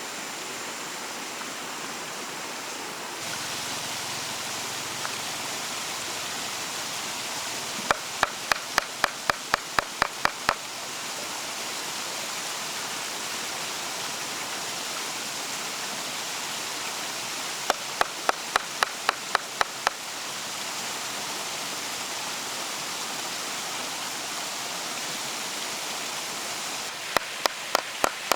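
A steady rushing noise like flowing water. Three times it is cut across by a run of quick, sharp knocks, about four a second, each run lasting two to three seconds.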